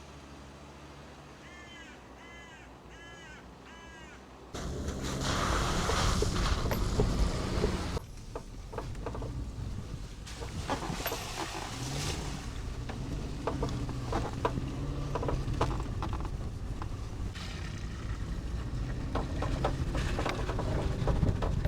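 A crow cawing several times over a low steady hum. From about four seconds in come the loud rushing noise of a moving vehicle, then, after a cut, the Suzuki Jimny driving over a rough, potholed track with a low rumble and repeated knocks and rattles.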